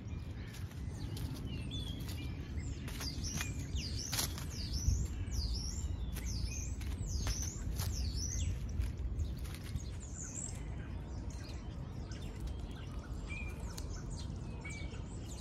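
Small birds chirping: a run of quick, high, falling chirps through the middle, and a few short chirps near the end, over scattered light clicks and rustles.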